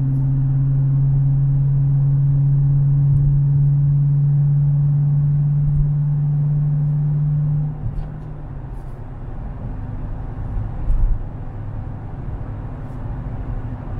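Widebody Dodge Challenger's V8 droning steadily at highway cruise, heard inside the car; the hum drops away about eight seconds in, leaving low tyre and road rumble on wet pavement.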